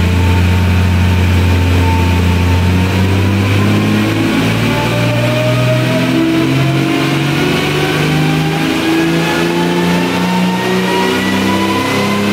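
Rally car engine running hard on a rolling-road dyno during a power run, its pitch rising slowly and steadily from about three seconds in as the revs climb.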